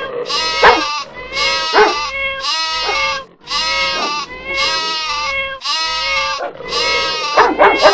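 Goats bleating again and again: one long, wavering bleat about every second. Two short, sharp calls near the start are the loudest sounds.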